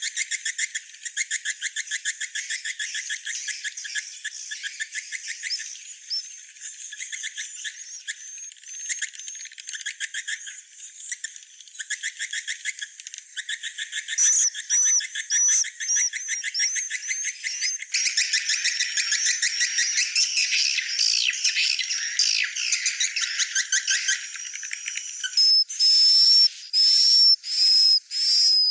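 Swiftlet calls: rapid, dense twittering trills. About halfway in, repeated high whistled chirps join them, and near the end they become louder and more spaced.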